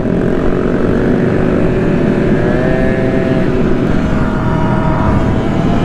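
Honda Grom mini bike engines running at a steady cruise, their pitch drifting gently, over heavy wind and road noise from riding.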